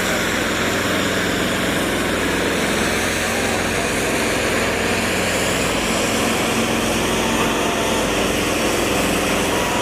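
Diesel tractor engines running steadily under heavy, low engine sound, with no pause or change.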